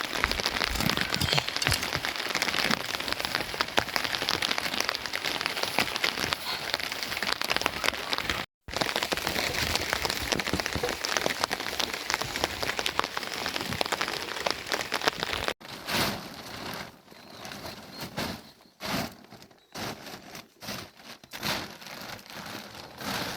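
Steady rain falling in a dense patter of fine drops, briefly cut off about eight seconds in. From about fifteen seconds in it gives way to a quieter, patchier sound with scattered soft pulses.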